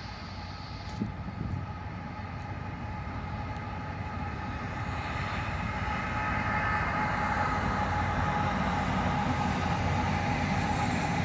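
A train passing on nearby tracks: a steady rumble that grows louder over the first few seconds and then holds, with a thin steady whine above it.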